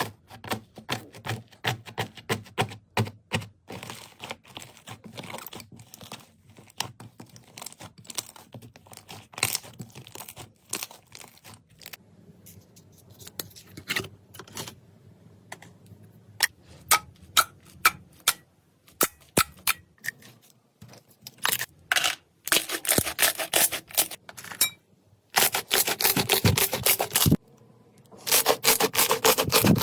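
Slime being squeezed, pressed and stretched by hand, giving a quick, uneven run of small clicks and crackles that turns into denser crackling bursts near the end.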